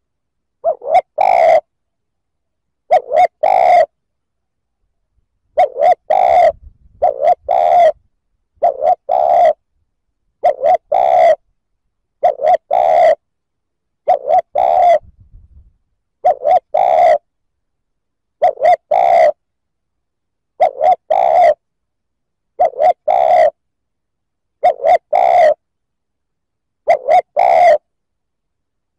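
Spotted dove (chim cu gáy) cooing: a short phrase of two or three notes repeated about every two seconds, with silence between phrases.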